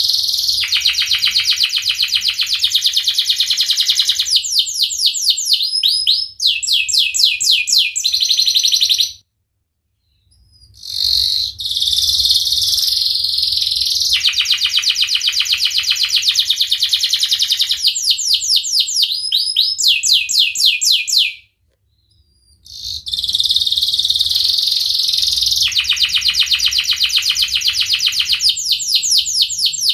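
Canary singing long bouts of fast trilled song (rolls), each bout ending in slower sweeping notes. There are two short dead-silent breaks between the bouts, about 9 and 21 seconds in.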